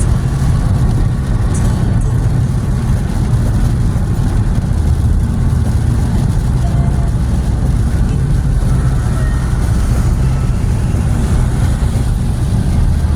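A car driving, with a steady low rumble of engine and road noise that holds an even level throughout.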